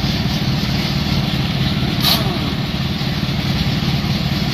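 Truck engine idling steadily with a low, even rumble, and one short click about two seconds in.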